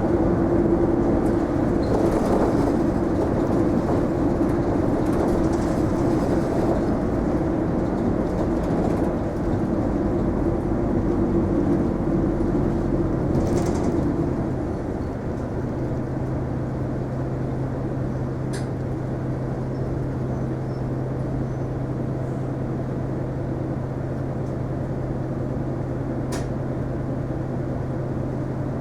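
Isuzu Erga non-step city bus heard from inside the passenger cabin. For about the first half it runs with a steady engine tone, which drops away about halfway through, leaving a steady low engine idle hum with a few faint clicks.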